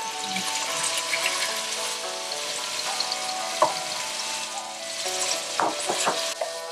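Thin strips of marinated beef sizzling as they drop into a very hot oiled wok. A wooden spatula scrapes and knocks against the pan and bowl, with sharp strokes about halfway through and a cluster near the end, over soft background music.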